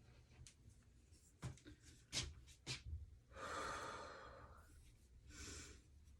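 A person letting out a long, heavy breath, then a shorter breath a second later, after a few light clicks.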